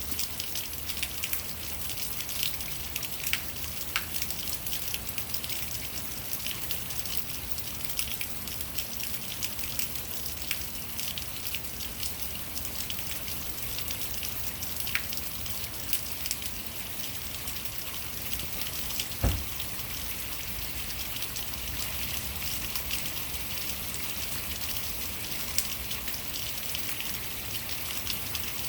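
Rainwater running chaotically down a rain chain: a steady spatter and trickle with many small drips and splashes, and one sharper knock about two-thirds of the way through.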